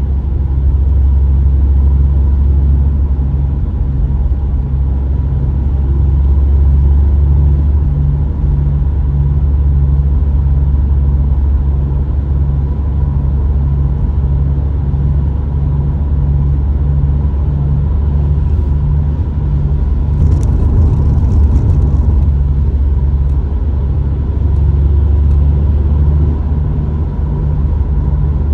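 Subaru STI driving at road speed: a steady low drone with a hum that pulses about twice a second. This is the rotating noise the owner puts down to either a tire or a worn wheel bearing.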